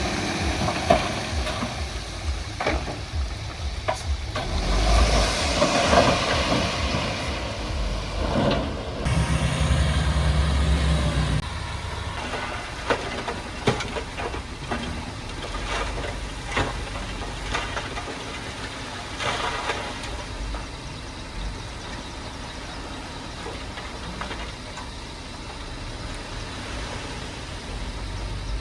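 Heavy earthmoving machinery at work: diesel engines running, with a burst of air hiss about five seconds in and a heavy low engine sound a few seconds later. Then it settles quieter, with scattered knocks and clanks.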